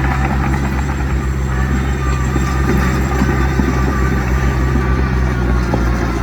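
Heavy diesel earthmoving machinery running steadily, with a deep continuous engine drone.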